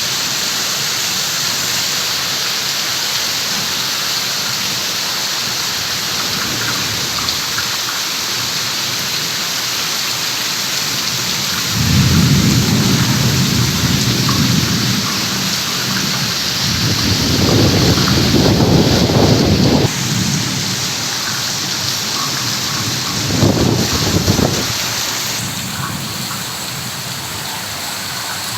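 Heavy rain falling steadily as a loud, even hiss, with three low rumbles in the second half, the last one short.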